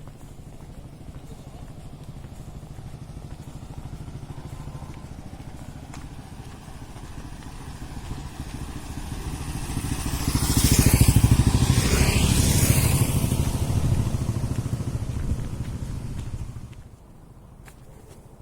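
A motor vehicle's engine passing close by on the road: a low rumble grows louder to a peak about ten to thirteen seconds in, then fades and cuts off suddenly near the end.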